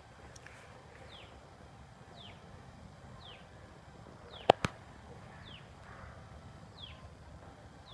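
A bird repeating a short, high, downward-sliding call about once a second. About halfway through there are two sharp clicks in quick succession, louder than anything else.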